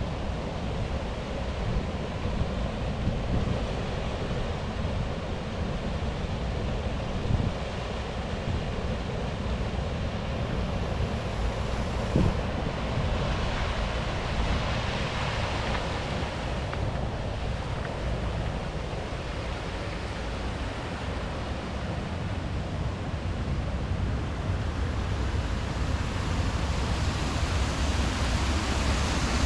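River water rushing in a steady wash, with wind rumbling on the microphone.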